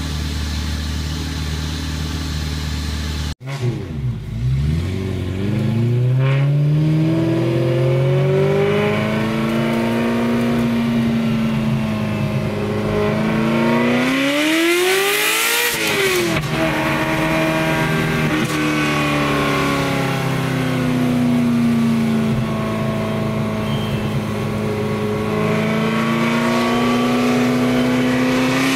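Ferrari 348 Spider's 3.4-litre V8 through an open aftermarket 'F1 sound' exhaust, heard from the cabin. It idles steadily, breaks off abruptly about three seconds in, then accelerates on the road, its pitch climbing and dropping back again and again. A hard rev peaks about halfway through and falls away, the note settles into a steadier cruise, and it climbs again near the end.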